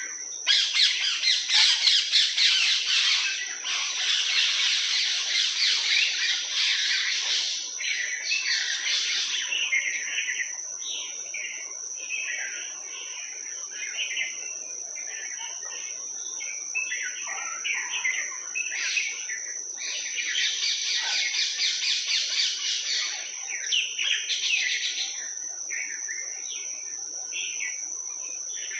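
Many birds chirping and chattering together. The chorus is dense and loud for the first several seconds and again about two-thirds of the way in, with scattered chirps in between. A steady high-pitched tone runs underneath.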